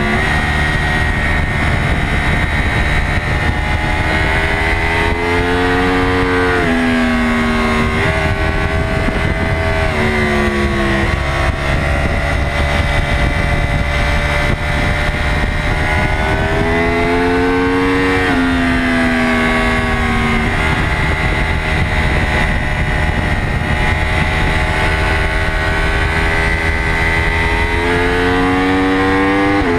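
Yamaha YZF-R1 race bike's crossplane inline-four engine pulling hard on track. Its pitch climbs with the revs and drops sharply at gear changes several times.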